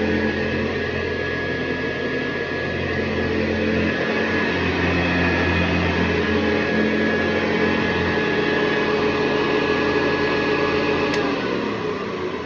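1974 Hoover Convertible U4047 upright vacuum cleaner running steadily with a humming motor whine. Near the end there is a click, and the motor starts to wind down with its pitch dropping.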